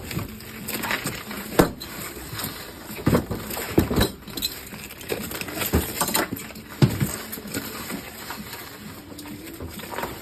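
Irregular knocks and clunks of objects being handled, about a dozen over several seconds, over a faint steady hum.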